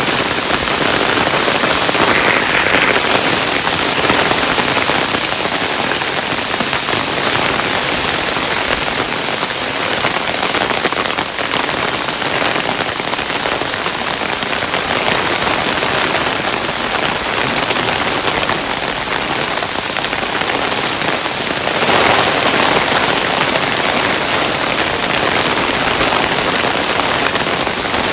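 Hailstones falling steadily, a dense pattering of many small impacts on a hard surface, with slight swells in intensity about two seconds in and again near the end.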